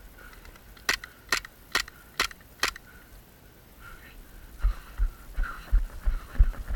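Five quick airsoft pistol shots, a little under half a second apart. From about two-thirds of the way through, low rhythmic thuds follow, the jolts of running footsteps.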